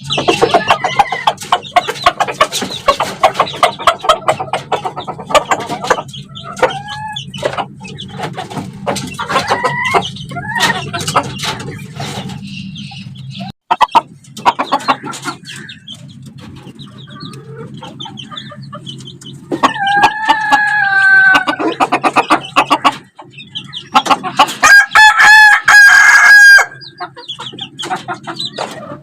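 Chickens clucking and calling throughout, with a rooster crowing twice, about two-thirds of the way in and again near the end; a steady low hum runs underneath for roughly the first half.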